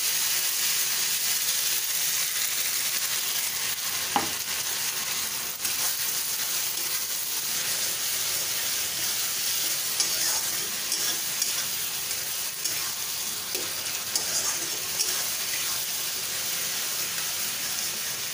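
Chopped onions, ginger-garlic paste and tomato paste frying in oil in a kadai, sizzling steadily, while a spatula stirs them and now and then knocks and scrapes against the pan.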